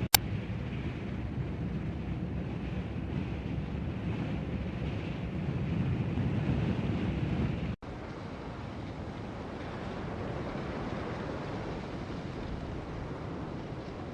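Strong wind blowing as a steady low rumbling rush. A sharp click comes right at the start, and about eight seconds in the sound cuts out for an instant and a somewhat quieter wind recording carries on.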